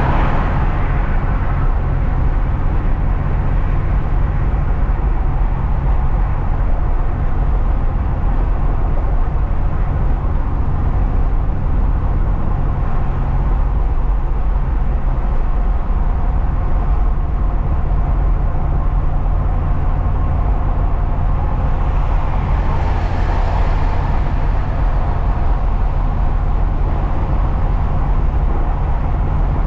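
Truck engine and tyre noise droning steadily while driving, with a brief swell of hiss about 23 seconds in.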